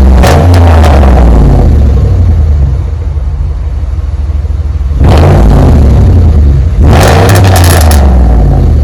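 1998 Lincoln Continental's 4.6-litre V8 exhaust through a double X-pipe and Flowmaster Flow FX mufflers, blipped by the throttle. It revs near the start, settles to a low idle, then revs sharply about five seconds in and again about seven seconds in, each time dropping back.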